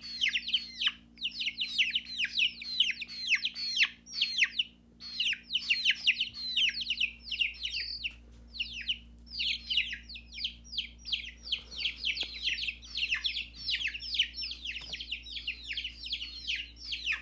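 Young chickens peeping: many rapid, high, downward-slurred peeps from several birds at once, almost without a break, pausing briefly about four seconds in.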